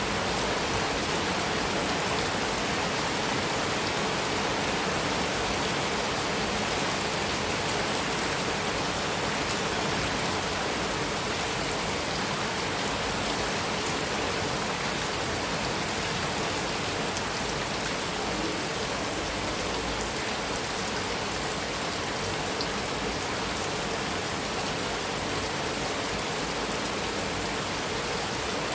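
Heavy rain falling steadily on a metal roof, an even, unbroken patter with no thunder.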